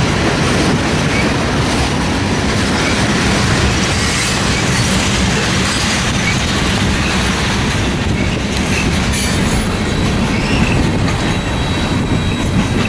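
Freight train cars, tank cars and covered hoppers, rolling past close by: a steady heavy rumble of steel wheels on the rails with scattered brief, faint wheel squeals.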